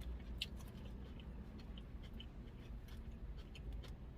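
Soft chewing with small wet mouth clicks from someone eating a taco, over a low steady rumble.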